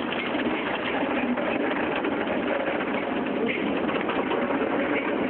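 Car wash equipment spraying and scrubbing the car in a dense, steady rush, with a dog's whines rising and falling over it a few times.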